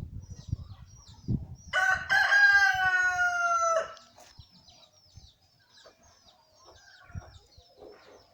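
A rooster crowing once: a single crow about two seconds long, starting near two seconds in and falling slightly in pitch at the end. Small birds chirp faintly throughout.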